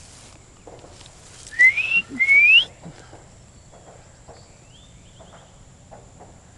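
Two loud whistles in quick succession about one and a half seconds in, each a clean note sliding upward in pitch, followed a couple of seconds later by a much fainter rising whistle.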